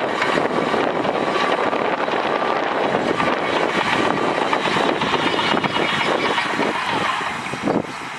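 Heavy diesel earthmoving machinery working, a loud, steady mechanical din with a rapid rattle. It eases off about seven seconds in, with a few sharper knocks near the end.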